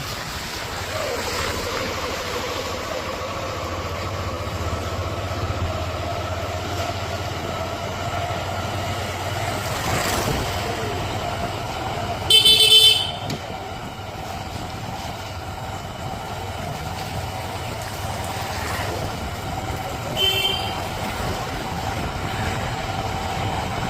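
Motor vehicle engine running steadily in road traffic, with a vehicle horn tooting twice: a longer, loud toot about twelve seconds in and a short one about twenty seconds in.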